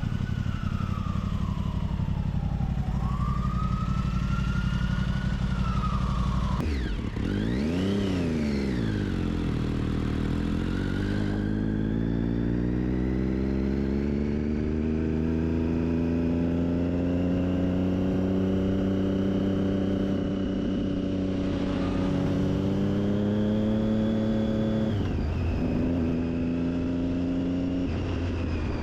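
Triumph Daytona 675's inline three-cylinder engine through an Akrapovic exhaust. It idles steadily, is blipped up and down quickly about eight seconds in, then pulls away with its pitch climbing steadily for several seconds before settling to an even cruise. The pitch drops suddenly at a gear change near the end.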